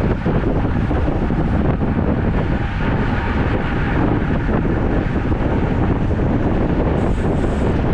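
Steady wind rush buffeting the microphone of a camera riding along on a road bike, with road noise under it.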